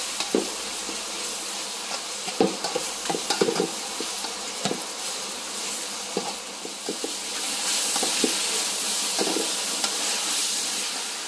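Diced chicken and garlic sizzling in hot oil in a large metal pot, stirred with a metal spatula that scrapes and clinks against the pot. The sizzle grows louder in the second half.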